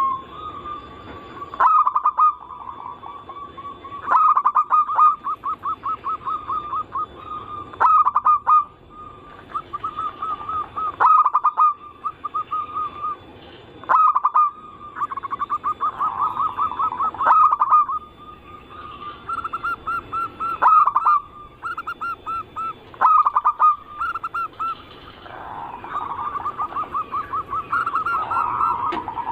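Zebra doves (perkutut) cooing: repeated phrases of quick staccato notes, a new phrase every two to three seconds.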